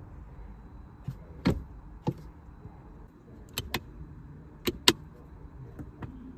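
Several sharp clicks and knocks from handling parts of a car, some in quick pairs, over a steady low hum.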